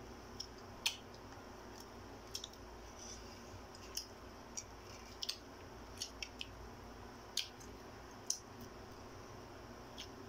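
Mouth sounds of eating: wet smacks and clicks from chewing, short and irregular, one every half second or so, the loudest about a second in.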